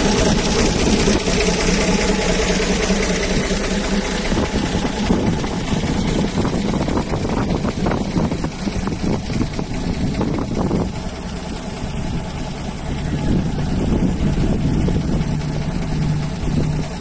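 Turbocharged Mercedes-Benz 352 inline-six diesel engine in a Ford D800 truck running steadily. Its note changes about twelve seconds in and then holds steady again.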